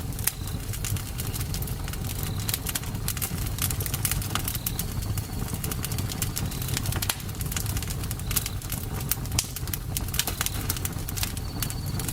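Campfire burning: dense crackling and sharp pops of burning wood over a steady low rumble of the flames. A faint short high chirp recurs every second or two.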